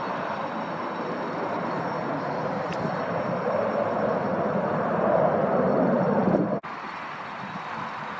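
Jet airliner engines passing, a dense rushing noise that swells louder over several seconds, then cuts off abruptly about six and a half seconds in, leaving quieter background noise.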